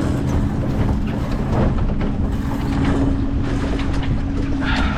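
Wind rushing over the microphone aboard a Flying Scot sailboat under way, a steady rumbling noise with a constant low hum running through it.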